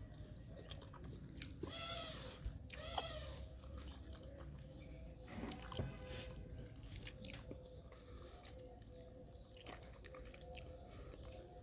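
Chewing of someone eating, with small mouth clicks throughout. A cat meows twice, short calls about two and three seconds in.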